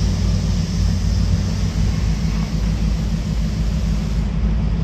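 Train going by, its diesel locomotive engines running with a steady low drone under a constant rushing noise.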